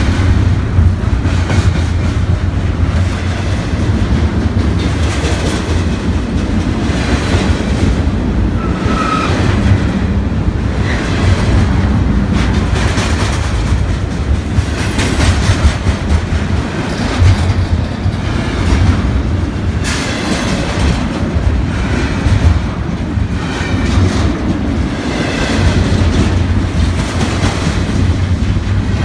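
BNSF intermodal train of double-stack container well cars rolling past at close range: a steady, loud low rumble with the wheels clicking over the rail joints.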